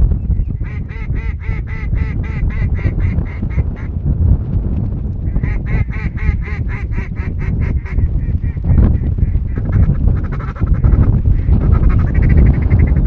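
Duck quacking in long, rapid strings of about five quacks a second, two loud runs and a softer one near the end, over a steady low wind rumble on the microphone.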